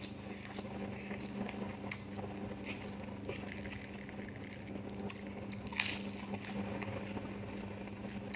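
Close-miked eating sounds: chewing with scattered small wet clicks and crunches, one sharper crunch near six seconds in, over a steady low hum.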